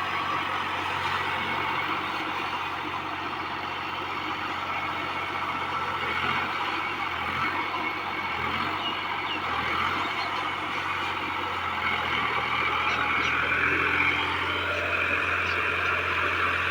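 Tractor engine running steadily under load in a field.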